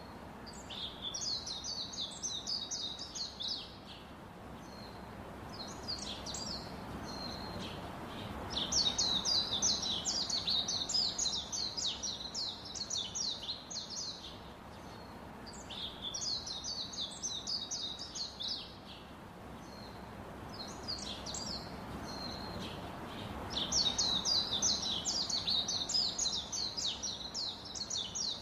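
Birds chirping: rapid, high-pitched chirps in bouts of a few seconds, four bouts with short pauses between.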